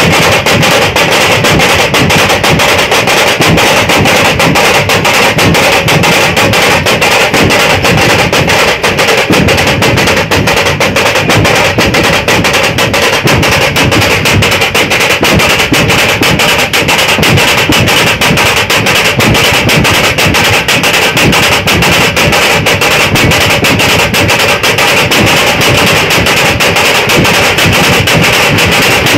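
Dhol-tasha troupe drumming: loud, dense, continuous beating on dhol and tasha drums.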